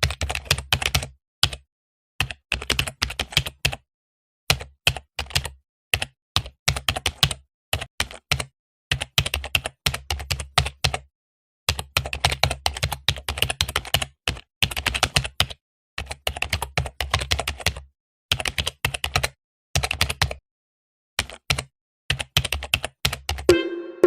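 Computer keyboard typing: rapid key clicks in bursts of one to two seconds, separated by short complete silences.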